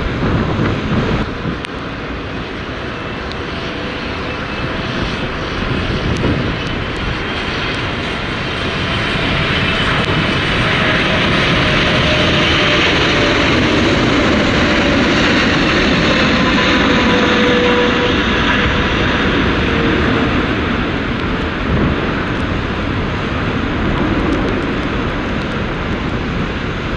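Jet airliner coming in to land passes by. Its engine noise builds to a peak about halfway through and then fades, with whining tones that fall in pitch as it goes past.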